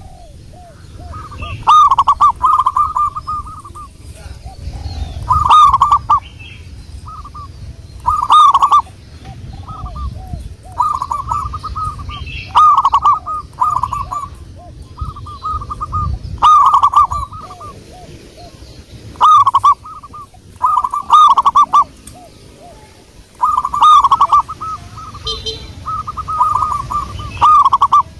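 Zebra dove (perkutut) singing its repeated staccato cooing phrase, one loud phrase every two to three seconds, with fainter, lower cooing notes between the phrases.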